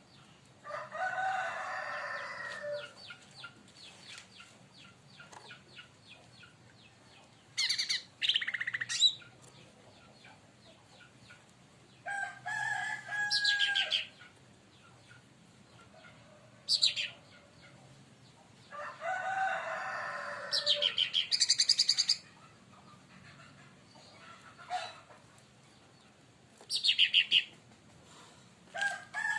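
Cucak ranting (cica daun, a leafbird) calling in short, sharp, high chirp phrases, several times. A rooster crows twice, about a second in and again about two-thirds of the way through.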